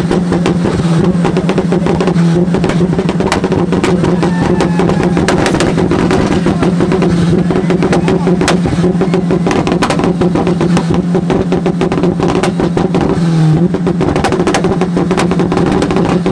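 Car engine held at high revs on a two-step launch limiter, a steady note with rapid crackling and popping from the exhaust; it dips briefly near the end.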